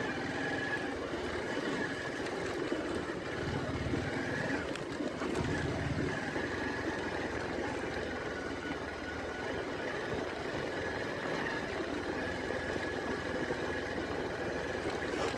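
Motorcycle engine running steadily at low speed while ridden through mud on a dirt road, its low rumble swelling for a couple of seconds about four seconds in.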